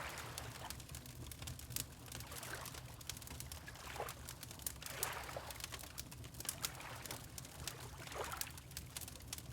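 Water lapping in soft swells a few seconds apart, over the scattered pops and crackles of a wood fire burning in a fireplace.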